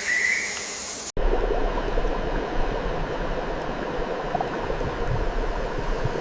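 Steady rushing noise, like running water, after an abrupt cut about a second in; before the cut, a short rising chirp over a faint buzz.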